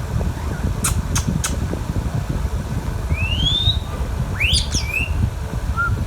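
Indian ringneck parrot whistling: a rising whistled note, then a steeper upward sweep and a few short notes near the end. Three sharp clicks come about a second in, and a steady low rumble runs underneath.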